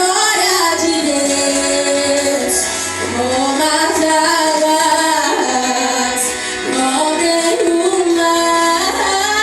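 A woman singing a worship song with instrumental backing, the melody rising and falling in long held notes.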